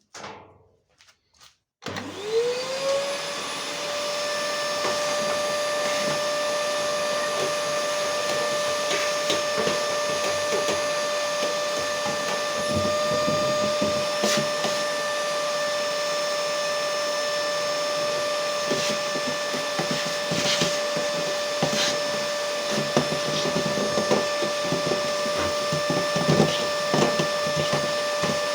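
A high-speed electric motor switches on about two seconds in and spins up quickly to a steady whine. It then runs at a constant pitch with a hiss of moving air and scattered clicks and rattles.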